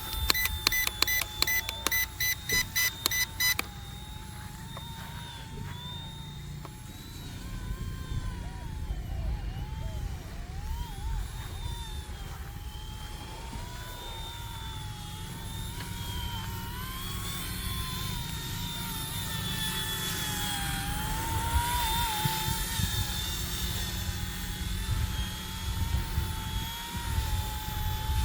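Small electric RC helicopter's motors and rotors whining, the pitch wavering up and down as the throttle changes, with wind rumbling on the microphone. In the first few seconds there is a quick run of electronic beeps, about four a second.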